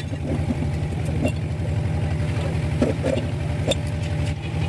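Hino truck diesel engine idling steadily, with a fast even low pulse and a few short sharp clicks over it.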